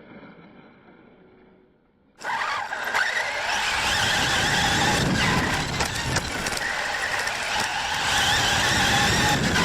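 RC car running, its motor and drivetrain whining with the pitch shifting as it speeds up and slows. The sound starts suddenly and loud about two seconds in, after a faint, fading stretch.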